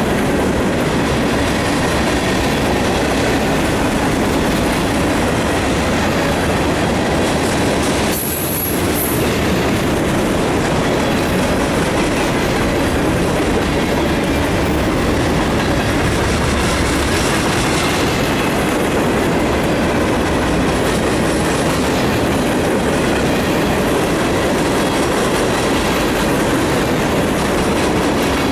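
Freight cars of a mixed freight train rolling past at close range: steady, loud noise of steel wheels on the rails, with a short dip about eight seconds in.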